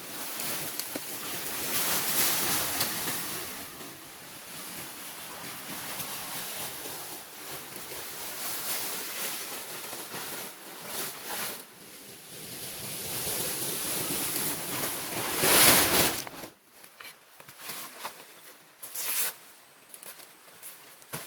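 Steady rushing noise of water or wind that swells and fades, then cuts off abruptly about sixteen seconds in. A quieter stretch of scattered rustles and light taps follows.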